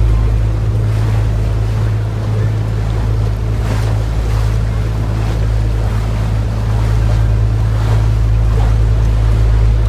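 Canal tour boat's motor running with a steady low hum, with water and wind noise on the microphone.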